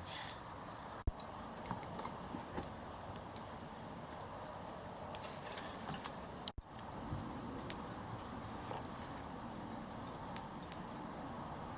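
Small wood fire crackling, with scattered sharp pops and ticks over a steady low hiss of burning.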